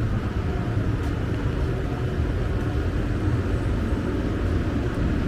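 Heavy rain falling steadily, over the low rumble of city traffic on wet roads.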